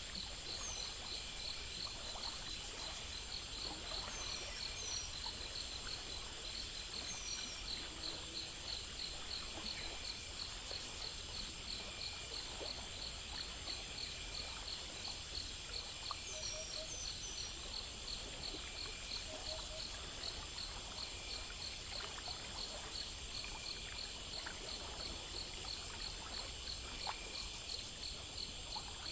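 Nighttime nature ambience: crickets and other insects chirping in a steady, even pulse of a few chirps a second over a continuous high buzz, with flowing, trickling stream water underneath. Short falling chirps come in now and then.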